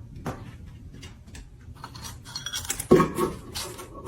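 A run of light clinks and knocks, like hard objects such as dishes or utensils being knocked together, with a louder knock about three seconds in.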